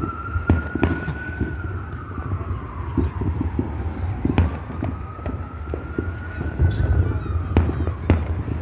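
Emergency vehicle siren wailing in a slow rise and fall, two cycles about four seconds apart, over a steady run of firework bangs with a heavy low rumble.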